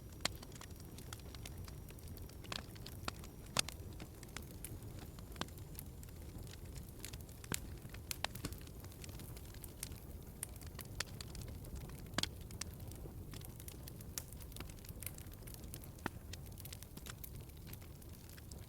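Wood fire burning in a fireplace: a steady low rumble and hiss with irregular sharp crackles and pops, two of them louder than the rest.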